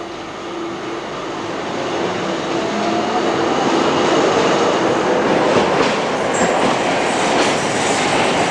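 A three-section articulated underground railcar running on the rails. The rumble grows louder over the first four seconds and then holds steady, with a faint whine early on and a few sharp rail clicks in the second half.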